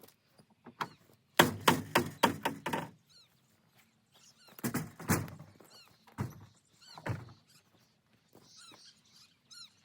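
Firewood being loaded: a quick run of wooden knocks and clatter about a second and a half in, then several single heavy thuds as logs land. Small birds chirp faintly in the pauses.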